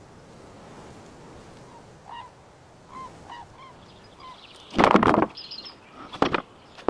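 A few short bird calls, then wood being struck hard: one loud crack about five seconds in and two shorter knocks near the end.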